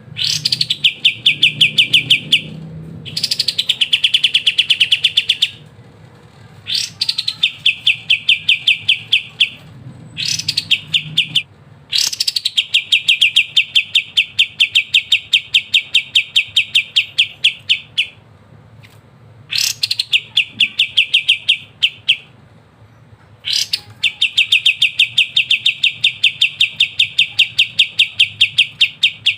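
Kapas tembak bulbul singing a long run of its rapid rattling trill. Seven phrases, each starting with a quick upward flick and then rattling on evenly for one to six seconds, with short pauses between them.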